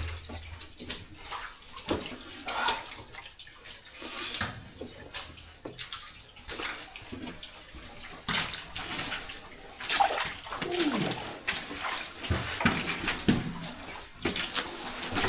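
Footsteps splashing and sloshing through shallow water, with irregular knocks and clicks of boots on stone.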